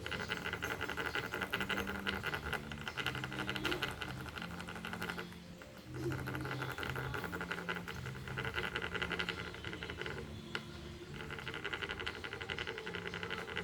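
Rapid, dry scratching in three long spells, breaking off briefly twice, over steady low hum notes that step up and down in pitch.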